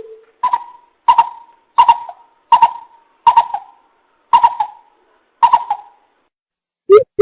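Greater coucal lure-call recording: a series of seven short hooting notes, each falling slightly in pitch, spaced a little under a second apart. Near the end a faster run of deeper hoots begins.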